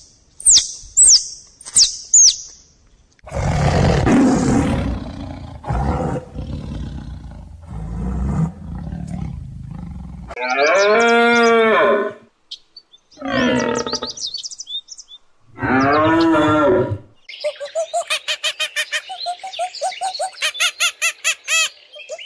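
A run of different animal calls, one after another. It begins with a few short, high, falling chirps, then a long rough low roar. Three drawn-out calls follow, each rising and falling in pitch, and the run ends in a fast rapid trill of about five pulses a second.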